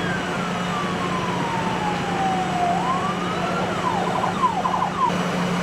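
Emergency vehicle siren: a slow falling wail that turns and rises, then switches to quick repeated yelps and cuts off suddenly about five seconds in. A steady low hum runs underneath.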